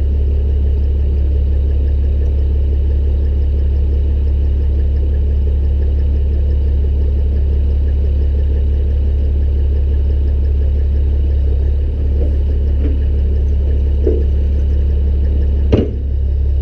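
Heavy diesel engine idling steadily with a deep, even hum. A single sharp metallic clank comes near the end.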